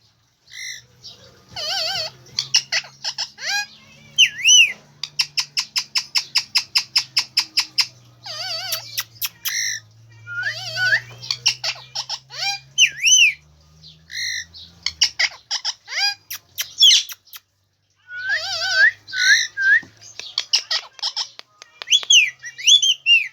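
Indian ringneck parakeet calling: sharp high chirps and squawks mixed with whistled notes that rise and fall. In the middle comes a fast, even run of chattering notes, about seven a second, lasting some three seconds.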